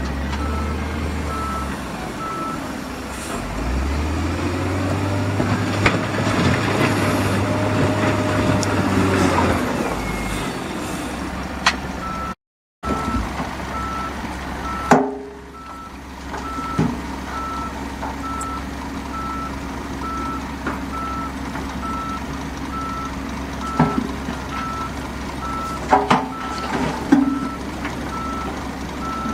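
Heavy construction machinery running with a steady low diesel drone, while a reversing alarm sounds a repeating single-pitched beep at the start and again through the second half. The sound cuts out completely for a moment just before halfway, and a few sharp clanks and knocks come in the second half.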